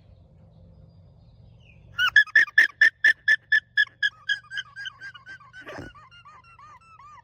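Alpaca calling: a rapid series of short, high-pitched calls, about four a second, starting about two seconds in and fading towards the end.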